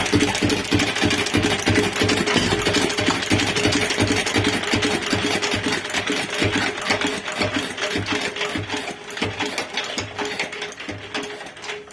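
Bernard D1 single-cylinder stationary engine running with fast, even firing beats, which slow down, spread out and fade over the last few seconds as the engine runs down.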